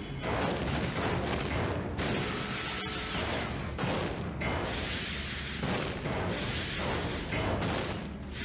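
Cartoon transformation sound effects: dense noisy surges with booms, coming in several waves about every second or two, over soundtrack music.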